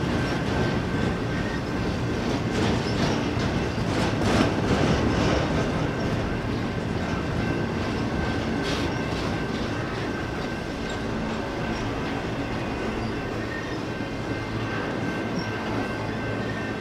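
Intermodal freight train's container-laden well cars rolling past, a steady rumble of steel wheels on rail with a thin steady high ring. Louder clanks come about four and about nine seconds in.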